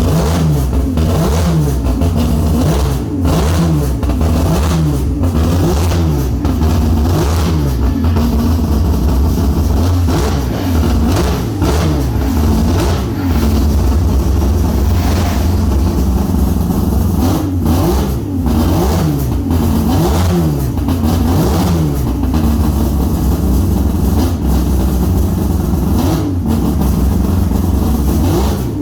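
Peripheral-ported 3.9 L six-rotor rotary engine in a custom BMW M6 being revved over and over in quick blips, the pitch rising and falling again about every second, with a few steadier stretches between the blips.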